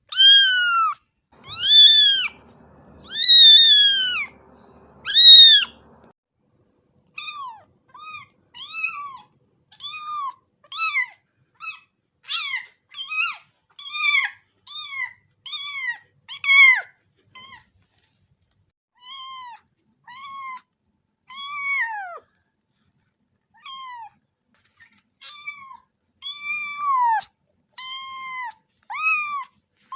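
A cat meowing over and over in high-pitched calls. Four long, loud meows come in the first six seconds, then a run of shorter, quieter mews at about one or two a second.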